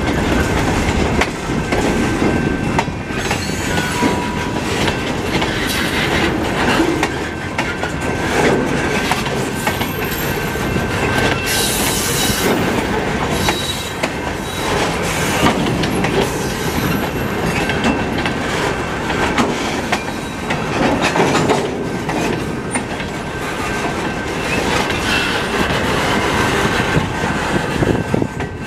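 Freight cars (covered hoppers, then high-cube box cars) rolling past at close range: a steady rumble of steel wheels clattering over rail joints, with thin wheel squeals coming and going. A brief burst of high, harsh noise comes about twelve seconds in.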